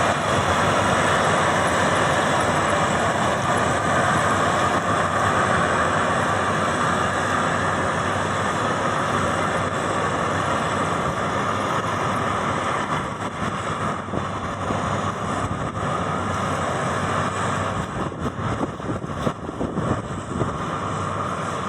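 Maxxi Bimo 102 X Top combine harvester running steadily, a dense mechanical noise of engine and machinery that gets slightly quieter and rougher, with some irregular clatter, in the last third.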